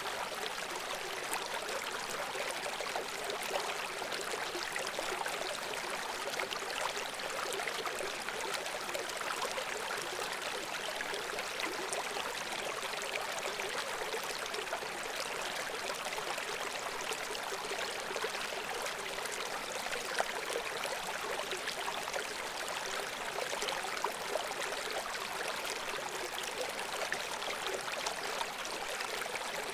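Babbling brook: shallow water flowing and trickling over stones in a steady, even rush, with small splashes and gurgles throughout.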